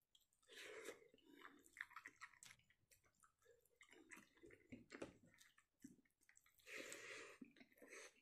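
A person chewing a mouthful of rice and fish curry, with fingers mixing rice into curry gravy on the plate. Irregular short clicks and soft bursts, louder about half a second in and again near the end.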